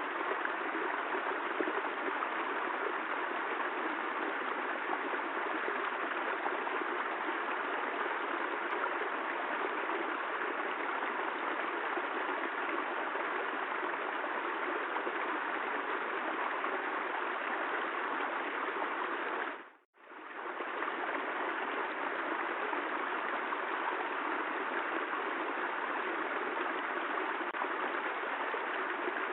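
Steady, dense rain noise, an even hiss with no distinct drops or thunder. About two-thirds through it fades out to near silence for a moment and fades straight back in, the join of a looped recording.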